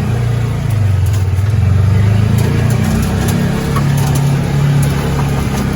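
Polaris Ranger 570 side-by-side's single-cylinder engine pulling hard up a steep climb, its pitch sagging and rising slightly under the load.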